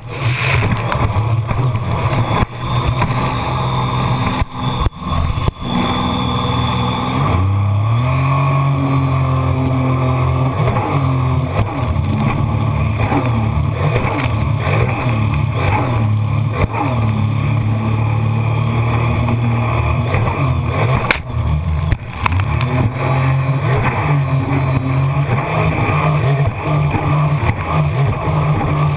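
Jet ski engine running under way, rising in pitch about seven seconds in as it speeds up and then holding a steady, slightly wavering high pitch. Knocks and buffeting come through in the first few seconds.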